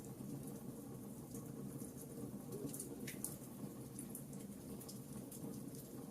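Campfire crackling: irregular small pops and snaps over a steady low rustle of burning.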